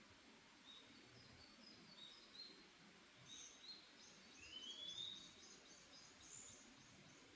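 Faint forest birdsong over a soft background hiss: scattered short high chirps, a rising whistled note about four and a half seconds in, then a quick run of repeated notes over the next two seconds.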